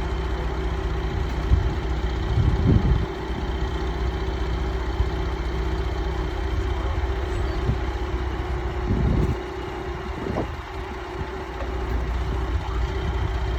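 A large engine idling steadily with a constant low hum. There are a couple of brief louder low rumbles, one a few seconds in and one about nine seconds in.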